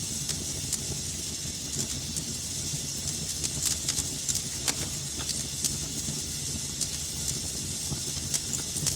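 Wood fire burning in a fireplace, with a steady hiss and frequent sharp crackles and pops at irregular intervals.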